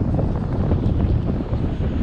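Subway train running, a steady low rumble with a rushing, wind-like noise and rattle from the wheels and track.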